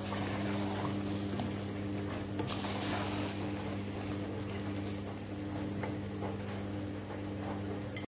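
Chicken pieces frying in oil with onion and garlic-ginger paste in an aluminium pot, stirred with a wooden spoon: a steady sizzle with small scrapes and clicks of the spoon against the pot. This is the bhuna stage of a chicken karahi. Under it runs a steady low hum.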